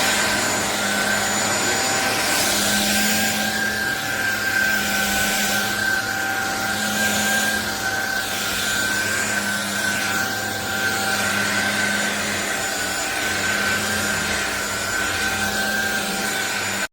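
Cordless stick vacuum cleaner (SunSare X7A) running with a steady high motor whine and rushing air, swelling and easing about every two seconds. It cuts off abruptly at the end.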